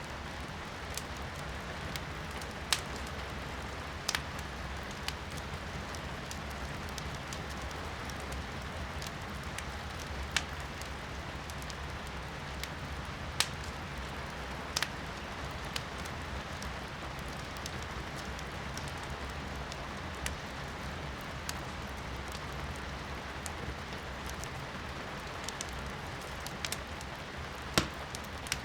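Firewood burning in a fireplace, crackling with sharp pops every few seconds, over a steady hiss of rain heard from inside the room.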